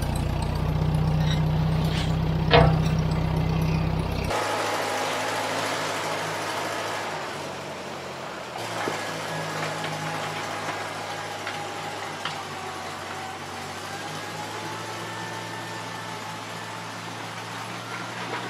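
David Brown 30 tractor engine running, with one sharp clank about two and a half seconds in. After about four seconds the engine sound drops abruptly to a quieter, more distant running, with a faint steady whine above it.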